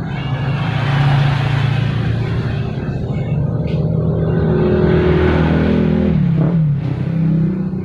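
A small engine running and revving, its pitch dropping sharply about six and a half seconds in before settling back to a steady run.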